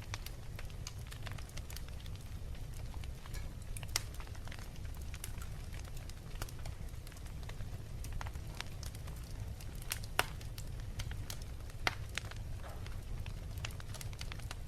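Wood fire crackling, with frequent sharp pops over a steady low rumble; the loudest pops come about 4, 10 and 12 seconds in.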